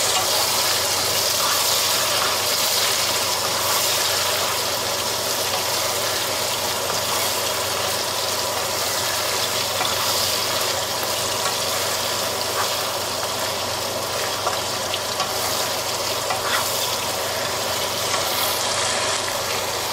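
Chicken meatballs, onion, tomato and bell pepper sizzling steadily in a nonstick frying pan as a wooden spatula stirs them, with a few faint taps and scrapes of the spatula against the pan.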